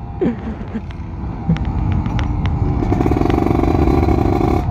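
Kawasaki Ninja RR 150 two-stroke single, with a ported 34 mm carburettor, running under way. It grows louder from about a second and a half in, with a fast, buzzing beat over the last couple of seconds.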